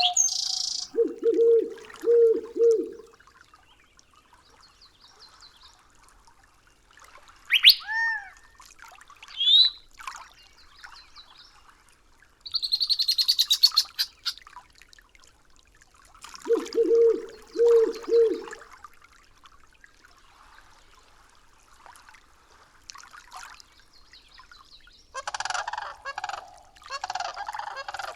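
Bird calls from a wildlife soundscape. A low three-note call comes about a second in and again about fifteen seconds later, with scattered higher chirps and whistles and a short fast trill in between, and a busier run of calls near the end.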